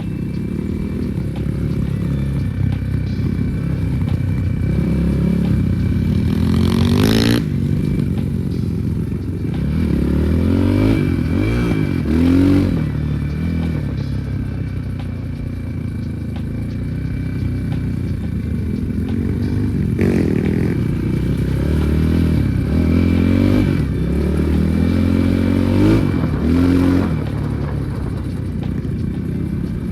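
Enduro motorcycle engine running under load as it is ridden off-road, the revs rising and falling again and again with several sharp bursts of throttle, over a clatter of the bike's chassis.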